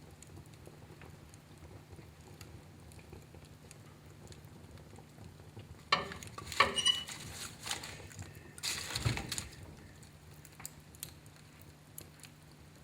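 Wood fire in a fireplace crackling, with faint scattered ticks, then a cluster of sharp loud pops about six to seven seconds in and a louder rushing burst with a low thud just after nine seconds.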